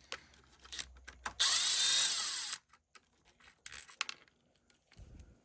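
Electric screwdriver running for just over a second, backing out an ESC screw from an RC truck chassis. Scattered clicks of the driver and small parts being handled come before and after it.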